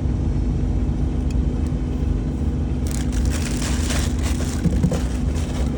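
A steady low mechanical drone with a constant hum. About halfway through, a few seconds of close crinkling and rustling from parts being handled by hand.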